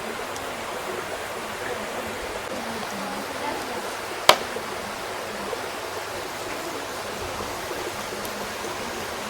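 Wood fire burning with a steady hissing rush and scattered faint crackles, and one loud, sharp pop about four seconds in.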